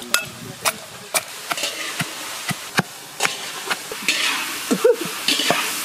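A run of sharp knocks, about two a second, then from about four seconds in the steady sizzle of mixed vegetables frying in oil as they are stirred.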